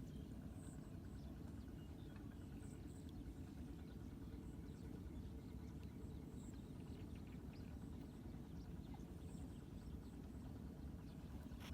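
Steady low rush of floodwater draining away, with faint scattered high clicks and chirps above it.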